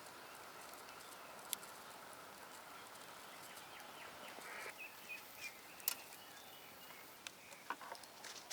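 Faint outdoor ambience with bird chirps and a few sharp clicks scattered through it.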